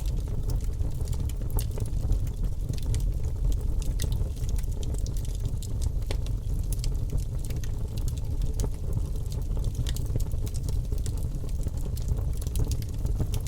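Logs burning in a wood fireplace, crackling with frequent small, irregular pops over a low, steady rumble of the flames.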